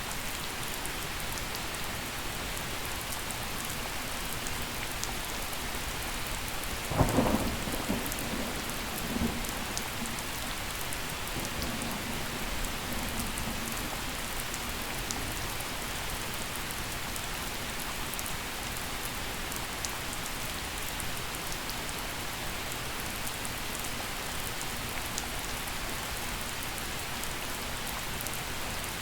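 Gentle, steady rain falling during a thunderstorm. About seven seconds in, a sharp crack of thunder is the loudest thing, and it rolls off as a low rumble over the next several seconds.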